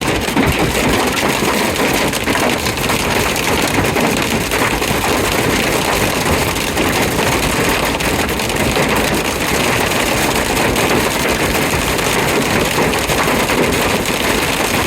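Hail and torrential rain beating down in a loud, steady, dense drumming of rapid impacts.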